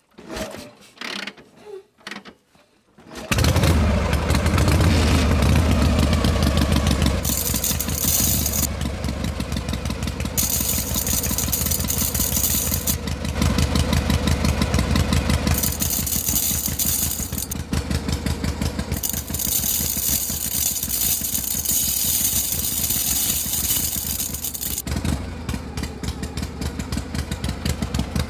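A few light clicks, then about three seconds in a small motor starts abruptly and runs steadily with a low hum and a fast rattle, a high hiss coming and going above it.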